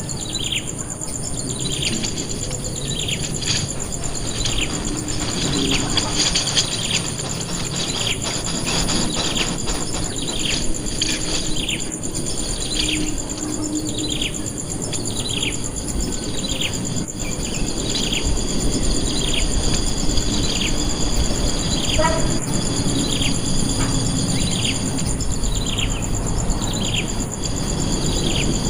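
A bird calling over and over with short, downward-sliding high notes, a little more than one a second, over a steady high buzz of insects.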